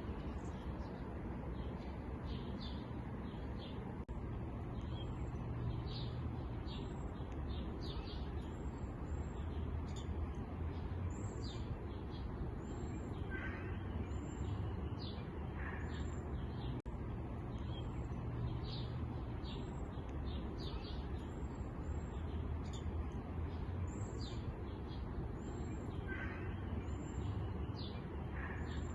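Small songbirds chirping and twittering, with many short high chirps repeating throughout and a few lower calls, over a steady low rumble.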